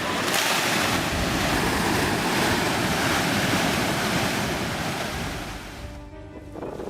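Steady rushing noise of a fast, debris-laden mudflow in a river channel, fading out near the end.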